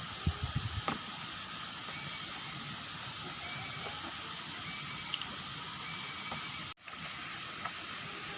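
Steady rush of a jungle waterfall and its stream. There are a few small knocks in the first second, and the sound cuts out briefly near the end.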